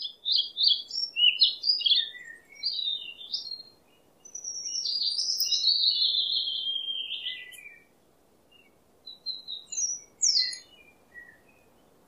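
A small bird singing, quick high chirps and twitters. About four seconds in comes a longer phrase that falls in pitch, then a few more scattered chirps near the end.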